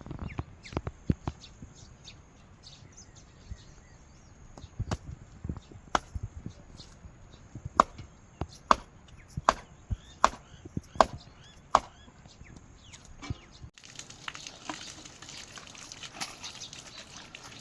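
Chopping with a blade on wood: sharp separate strikes, with an even run of six about three quarters of a second apart near the middle among scattered lighter knocks.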